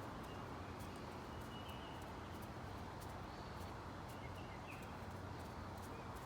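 Faint wild bird calls, a few short chirps, over steady outdoor background noise with a low hum and scattered faint high ticks.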